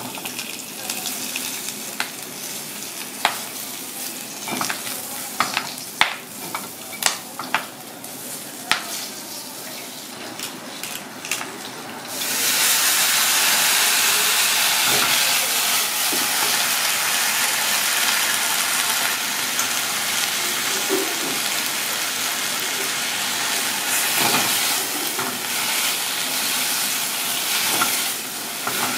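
Swiss chard frying in oil in a small cast-iron wok, stirred with wooden chopsticks that click sharply against the pan. About twelve seconds in, a much louder steady sizzle starts suddenly as the leaves hit the hot oil.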